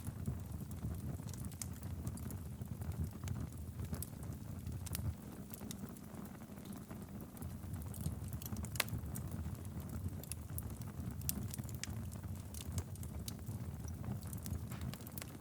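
Wood fire crackling in a fireplace: frequent small, sharp pops and snaps at irregular intervals over a steady low rumble of flame.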